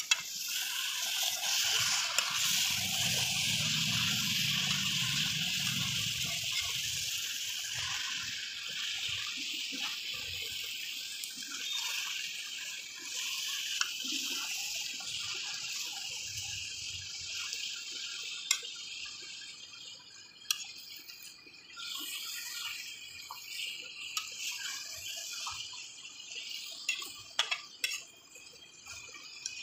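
Chicken sizzling and hissing as it fries in a karahi, with a low rumble for the first several seconds; the hiss slowly fades. A ladle stirring the pieces gives scattered clicks and scrapes against the pan.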